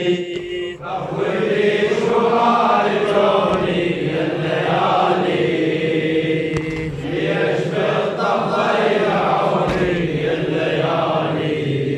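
Unaccompanied male chanting of an Iraqi Arabic Shia elegy, long wordless melodic lines drawn out between verses of the lament.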